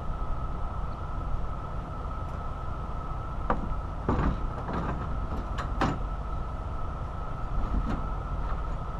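Several sharp metallic clanks and knocks in the middle, parts being handled and refitted on a semi truck, over a steady low rumble and a constant high hum.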